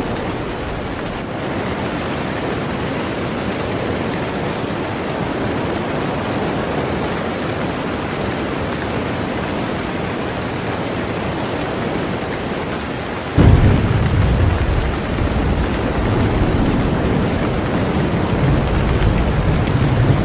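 Heavy rain falling on a boat, a steady hiss. About two-thirds of the way through, a deep rumble of thunder sets in suddenly and keeps on.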